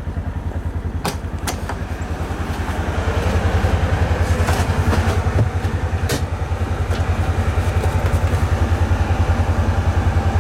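Ranger utility vehicle's engine running with a steady, fast low pulsing that grows louder about three seconds in, with a few sharp clicks over it.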